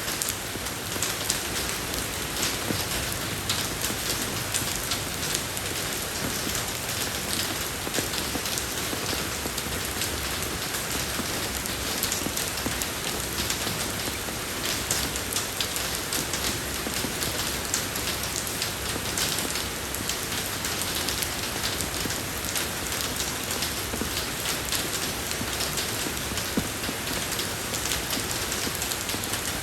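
Steady rain falling on a road surface, a continuous even hiss dotted with the ticks of individual drops.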